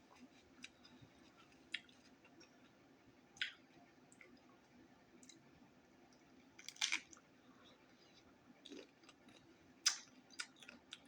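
Close-miked mouth sounds of someone eating a taco: chewing and lip smacking, heard as scattered short wet clicks, with the loudest about seven and ten seconds in.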